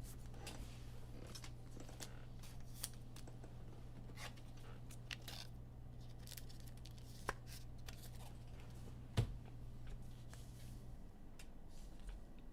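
Trading cards being handled and slid against one another, with scattered faint clicks and brief rustles, over a steady low hum that stops near the end.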